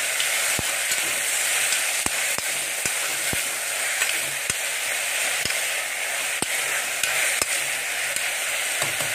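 Chopped vegetables sizzling in hot oil in a pressure cooker as they are stirred, with a metal ladle clicking against the pot about nine times.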